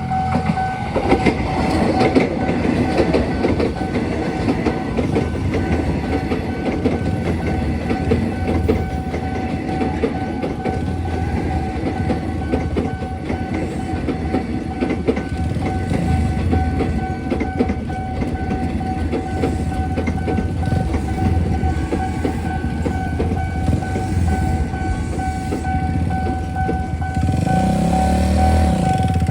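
A train passing through a railway level crossing, its wheels clattering steadily over the rails, while the crossing's alarm holds one steady high tone; the alarm stops at the very end.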